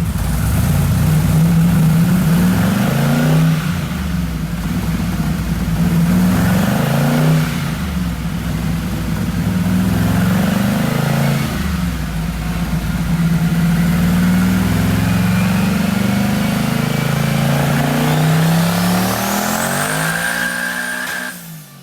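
Twin-turbo LSX 427 V8 revving hard on a chassis dyno, its pitch climbing and falling back again about every four seconds. Near the end a thin whistle rises steeply before the sound cuts off.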